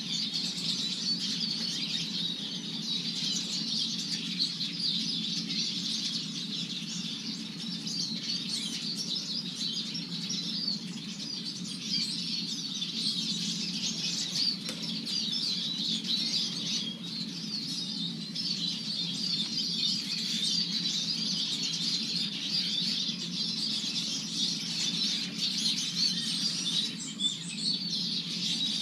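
Eurasian siskins twittering and chattering without a break, many calls overlapping, with a steady low rumble underneath.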